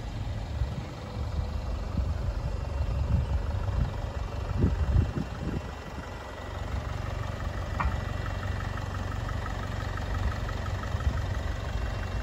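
Low, steady rumble of a 2018 Jaguar XF's engine idling, with a few low thumps about halfway through.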